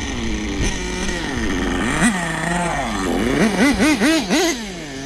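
Nitro .21 engine of a Team Associated MGT 3.0 RC monster truck revving up and down. In the second half it gives a quick run of about five throttle blips.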